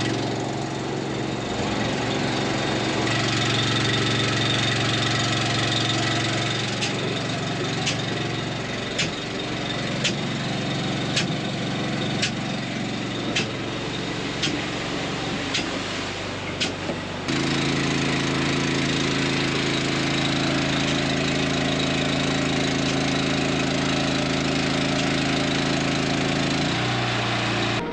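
An engine runs steadily, with a run of about ten sharp clicks roughly one a second in the middle. The engine sound changes abruptly about two-thirds of the way through and again near the end.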